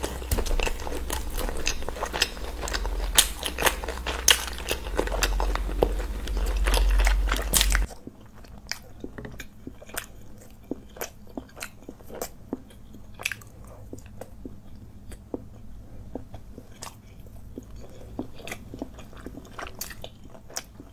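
Close-miked eating sounds: wet chewing and biting into pieces of spicy mutton curry with bread, dense mouth clicks over a steady low hum. About 8 s in it switches abruptly to quieter, scattered chewing and mouth smacks as chicken curry is eaten by hand.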